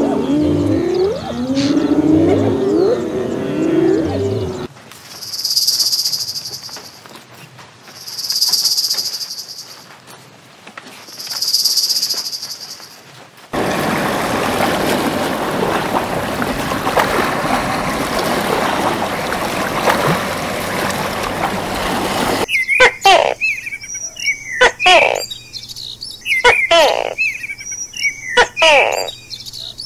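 A run of wildlife sounds. First, spotted hyenas calling with low, rising and falling cries. Then come three long, high insect buzzes a few seconds apart, a steady rushing hiss of water for about nine seconds, and finally quick, sharp chirps falling in pitch, as of birds.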